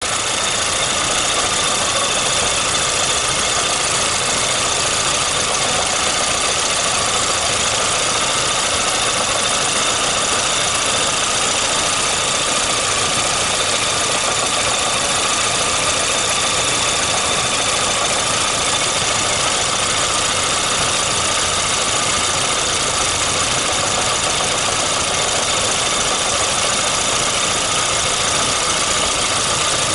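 VAZ 2115's 1.5-litre eight-valve inline-four (VAZ-2111) engine running steadily at idle, warmed to about 60–70 °C, with an intermittent tapping knock that the owner says comes on as the engine warms up and cannot place.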